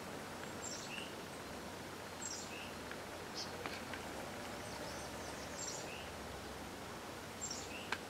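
Quiet outdoor ambience with a small bird chirping: four short high calls, each a quick falling note followed by a lower one, spaced a second or more apart. A sharp tick comes right at the end.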